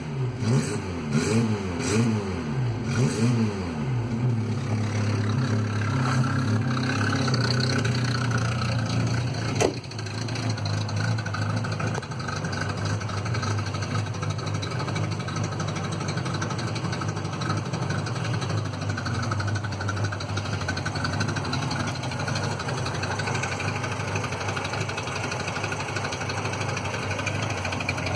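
Citroën Visa 11 RE engine with a leaking exhaust, revved in a few quick blips over the first few seconds and then running steadily. There is a single sharp click about ten seconds in.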